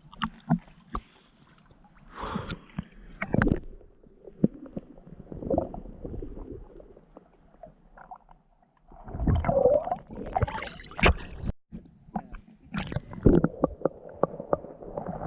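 Water gurgling and sloshing around a handheld action camera held in the water, with irregular splashes and knocks against the housing.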